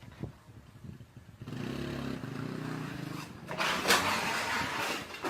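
A motorcycle engine running, coming in about a second and a half in. It is followed by a louder rushing noise with a sharp knock about four seconds in.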